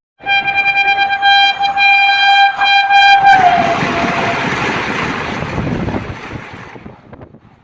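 Indian train's locomotive horn sounding one long steady note for about three seconds, dipping slightly in pitch as it passes. Then the loud rush and rumble of the train going by at speed, fading out near the end.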